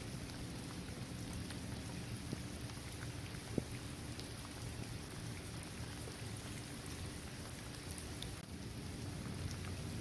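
Steady rain falling on a paved court, trees and grass, with scattered drop ticks and one sharper drip about three and a half seconds in.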